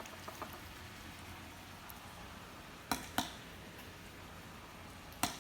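Steady sizzle of food frying in a pan, with three sharp clicks, two close together about three seconds in and one near the end.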